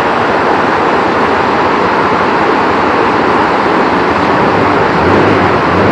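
Very heavy rain pouring down, a loud, steady, dense hiss.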